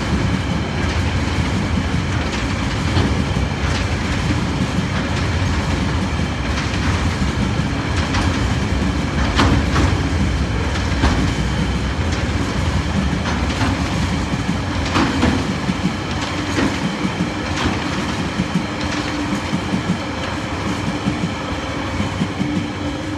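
Container wagons of a freight train rolling past on steel wheels: a steady rumble with scattered clicks and clacks of wheels over the rail, easing off near the end as the last wagon goes by.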